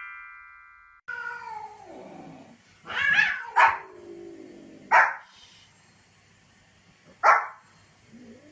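Puppy barking: a falling, drawn-out whine-like call about a second in, then four short barks, two close together around three seconds and single ones near five and seven seconds.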